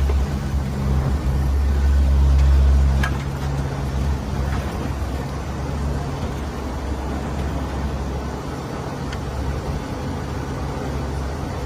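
Steady low drone of a four-engine turboprop aircraft heard from inside the cabin in flight. It is a little louder at first and eases off about three seconds in, with a couple of faint clicks.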